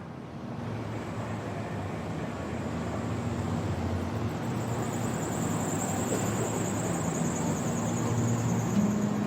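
Car on the move: steady road and engine noise that grows gradually louder, with a faint high whine joining about halfway through.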